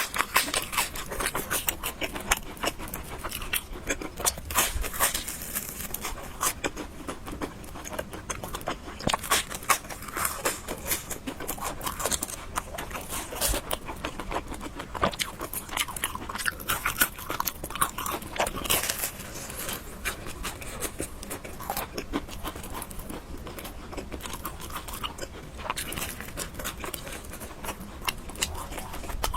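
Close-miked mukbang eating: biting and chewing spicy noodles and fried egg, a dense, continuous run of small clicks and crunches.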